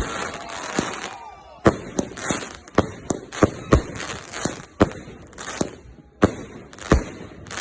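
Fireworks going off: a rapid, irregular series of sharp bangs, roughly two a second, with crackling hiss between them.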